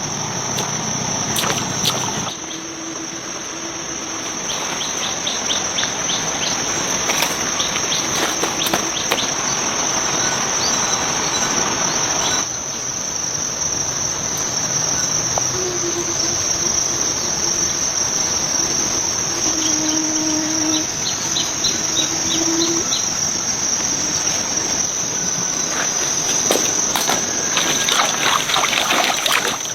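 A steady, high-pitched trilling of insects in a rural orchard, with a few short, low-pitched calls and scattered light clicks and rustles.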